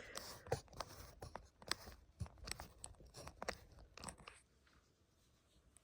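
Handling noise from a phone being set into a tripod mount: a run of sharp clicks and crackling rubs close to the microphone, stopping about four seconds in.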